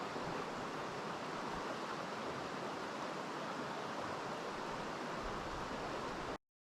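Mountain stream water rushing steadily. It cuts off suddenly near the end.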